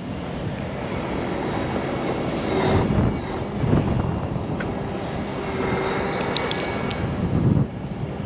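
Heavy diesel truck engines running steadily, a continuous rumble with a faint high whine rising about six seconds in.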